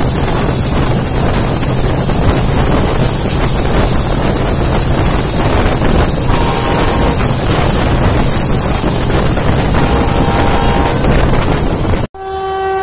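Loud, steady rush of wind and rolling wheels as two trains pass each other at speed, heard from one of the moving trains, with wind buffeting the microphone. Near the end it cuts off suddenly and a train horn starts, sliding slightly down in pitch.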